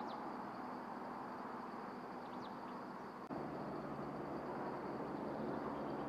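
A few short, high bird chirps, one at the start and a small cluster about two and a half seconds in, over a steady high-pitched drone and outdoor background noise. A little past halfway, a low steady engine-like hum starts abruptly and continues.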